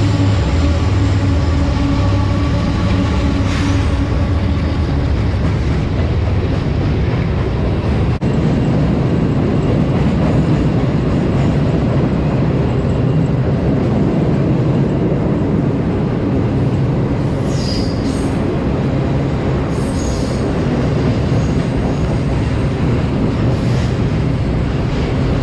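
Steady, loud rumble of a vehicle driving on the highway: road, tyre and engine noise running evenly.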